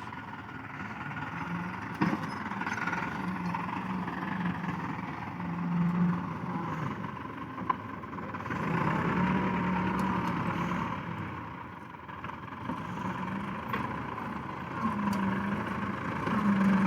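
Tractor engine running, its revs rising and falling again and again, with a sharp knock about two seconds in.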